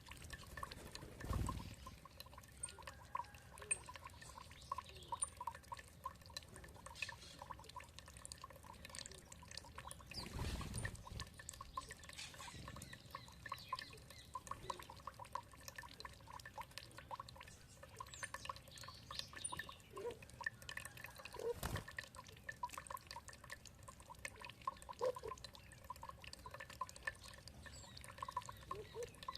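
Water dripping and trickling in a steady stream of small ticks, with a few faint bird chirps above it and a few soft low thumps.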